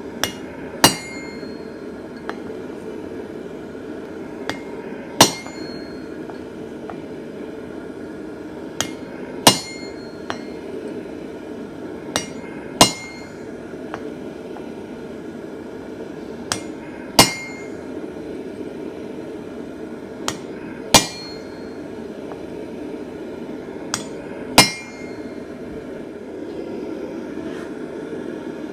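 Blacksmith's hammer striking steel on an anvil, in pairs: a light tap, then a heavy blow that rings, repeated about every three to four seconds. A steady low rush of noise runs underneath.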